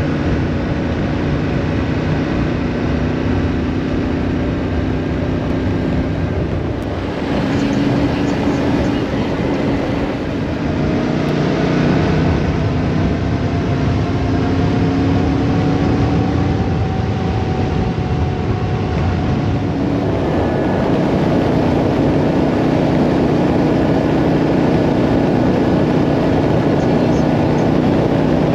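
Yamaha Ténéré 700's parallel-twin engine running under way with wind and road noise, the engine note rising and falling as the bike changes speed.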